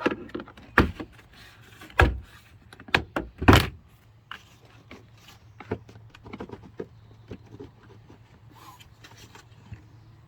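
Tools and metal parts knocking and clicking while the tailgate latch is being removed: several sharp knocks in the first four seconds, then lighter scattered clicks.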